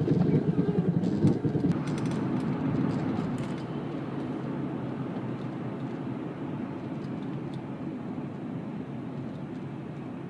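Vehicle noise heard inside a moving car: a rumble that is loudest and uneven for the first two seconds, then settles into a steady drone.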